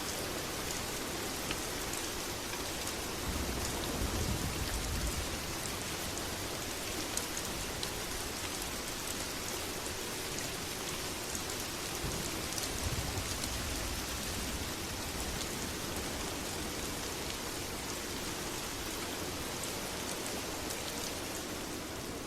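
Steady heavy rain falling, with scattered sharp drop ticks and a low rumble that swells briefly twice.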